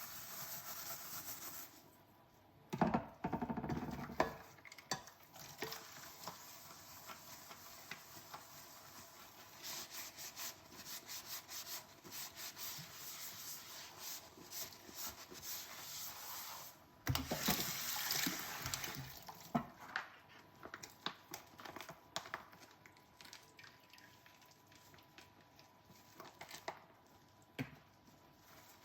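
Dishes being washed by hand at a kitchen sink: steady sponge scrubbing with small clinks of dishware. Two louder stretches of water or handling break in, about three seconds in and again about seventeen seconds in.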